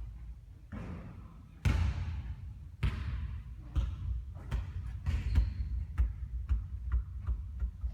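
Basketball bouncing on the court floor: two heavy bounces, then a run of quicker bounces about two a second.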